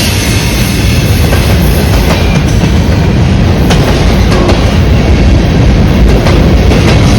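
CN freight train's cars rolling past close by: a steady loud rumble with wheels clicking over rail joints.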